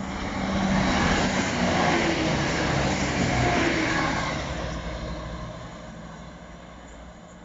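A diesel multiple unit passing through a station at speed. Its engines and wheels on the rails swell to a loud peak as it goes close by, then fade away.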